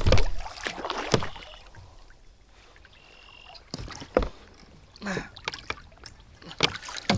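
Scattered knocks and bumps against a kayak, with light water movement, as a landed bass is dealt with in the boat.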